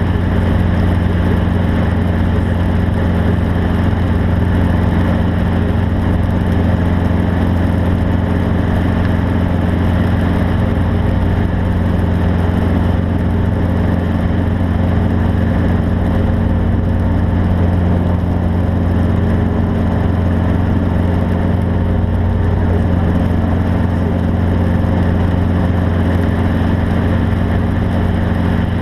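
A vehicle engine running at a steady speed: a constant low drone that holds the same pitch and loudness throughout.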